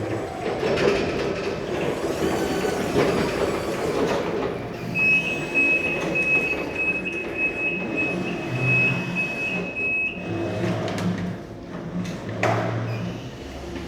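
Electric reach truck running, with motor and hydraulic hum. A shrill warning tone sounds steadily for about five seconds mid-way, and there is a sharp clank near the end.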